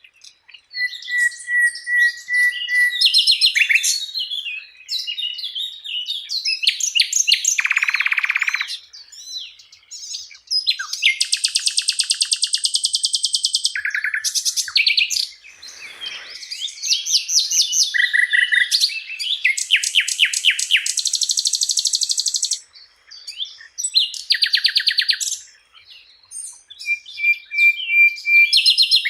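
Sikatan londo singing a long, varied song of rapid trills, buzzy rattles and short steady whistles, in phrases of one to three seconds with brief pauses between them.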